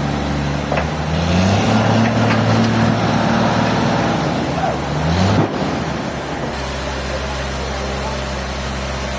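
An engine running and revving, its pitch rising about a second and a half in and again near five seconds, then a sudden switch to a steadier, lower hum about six and a half seconds in.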